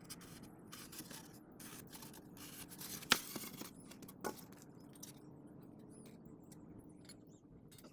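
Faint scraping and rustling of hands working on rebar and a styrofoam form, with a sharp click about three seconds in and another about four seconds in.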